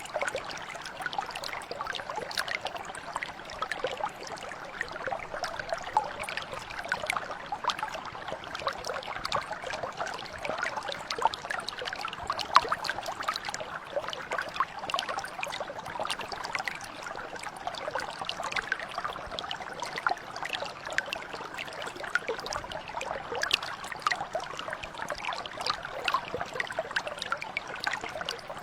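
Shallow stream or mountain brook flowing over stones, a continuous babble of small trickles and splashes.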